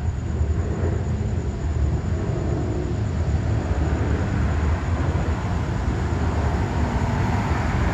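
Steady low rumbling background noise with no distinct events, and a faint thin high whine throughout.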